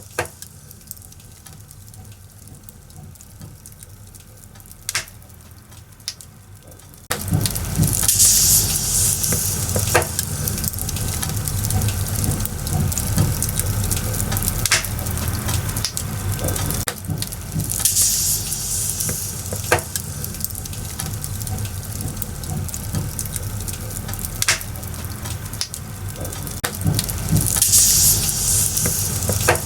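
Firewood burning in a bonfire, crackling with sharp pops. About seven seconds in it suddenly gets much louder, with denser crackling and a hiss that swells up every ten seconds or so.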